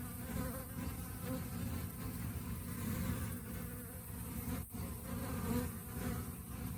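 Honey bees buzzing, a steady hum with a momentary break about four and a half seconds in.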